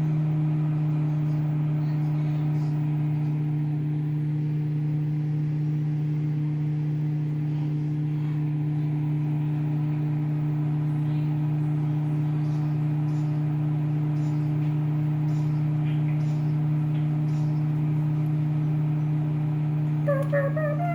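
Microwave oven running, a steady even hum, while it heats a mug cookie cake, with a few faint ticks partway through.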